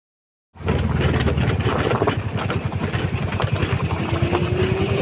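Scooter engine running steadily with a fast low pulse. It cuts in suddenly about half a second in, after dead silence. Near the end a faint, drawn-out tone slides slightly up and then back down.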